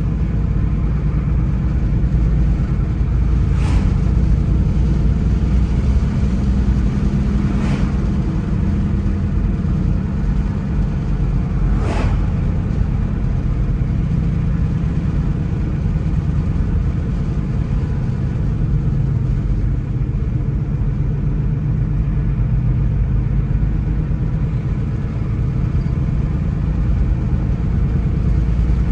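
A car driving along, with a steady low engine and road rumble. Three short sharp knocks come about four seconds apart in the first half.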